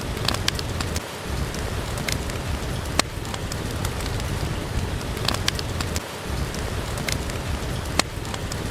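Steady rain hiss over a low rumble, with a wood fire crackling: scattered sharp pops and snaps, the loudest about three seconds in and again near the end.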